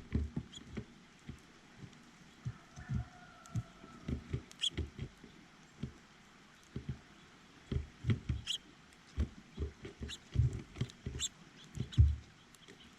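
Irregular soft knocks, taps and scrabbling of small animals feeding on a bird feeder right beside the camera, with a few sharp high ticks among them.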